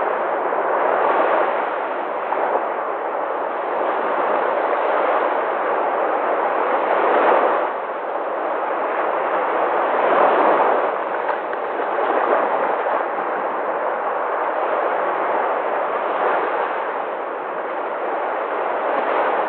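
Sea waves breaking: a continuous rush of surf that swells louder every few seconds as waves come in, loudest about seven and ten seconds in.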